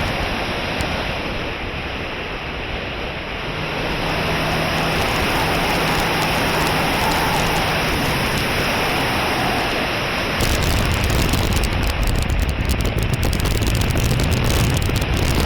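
Heavy wind rushing over the microphone, with a faint steady hum in the middle. From about ten seconds in, harder gusts buffet the microphone, with a deeper rumble and crackling.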